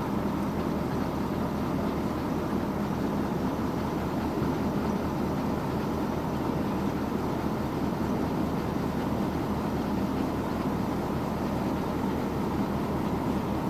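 Heavy diesel road-construction machinery running steadily during asphalt laying, a continuous low engine drone.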